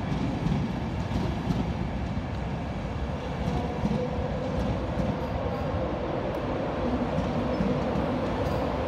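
LNER passenger train moving along the platform: a steady rumble of coach wheels on the rails. A faint steady hum comes in about four seconds in.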